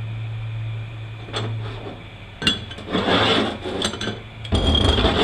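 Metal transmission parts clinking and scraping as they are handled, with a clatter about three seconds in and a heavier knock near the end. A low hum runs under the first two seconds.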